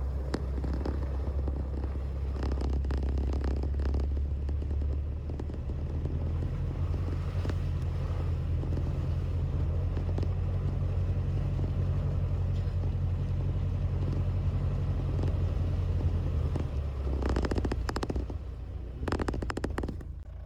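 Vehicle engine and road noise while driving: a low steady drone whose pitch shifts a couple of times, with brief rougher noise about three seconds in and again near the end.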